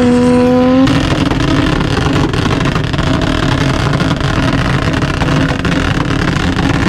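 Turbocharged Toyota Supra engine held on its two-step launch limiter: the revs hold a steady note for about a second, then break into a continuous rapid crackle of exhaust pops and bangs.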